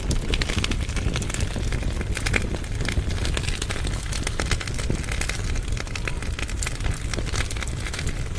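Firewood burning in a fireplace firebox, crackling with many irregular sharp pops over a steady low rumble.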